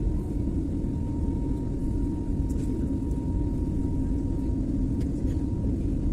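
Airliner cabin noise during the flight: a steady low rumble of engines and airflow with a faint, even whine above it.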